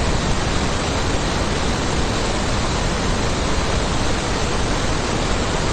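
Steady, even rushing hiss with no pitch or rhythm.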